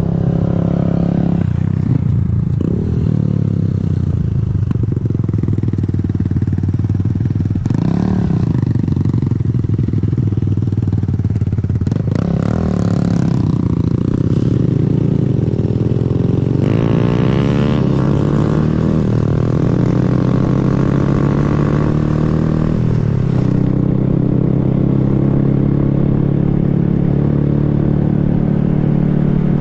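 Honda Grom's 125 cc single-cylinder engine running on the move, its pitch rising and falling as the throttle opens and closes.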